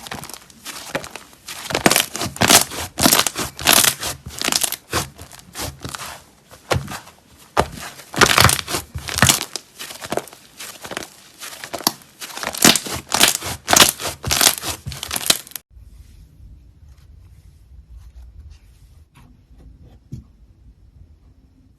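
Slime being squeezed, stretched and pressed by hand, giving dense crackling and popping sounds. About three-quarters of the way through this stops abruptly, leaving a much quieter low hum with a few faint soft clicks.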